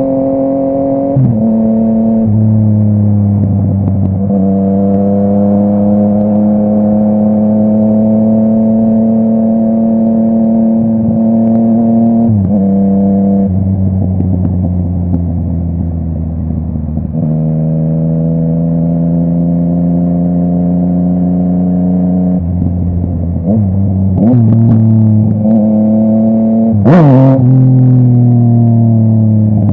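Yamaha MT-09's inline three-cylinder engine through a full Akrapovic exhaust, ridden at steady road speed. The note climbs slowly and drops at several gear changes. Near the end there is a quick rise in revs with a sharp crack.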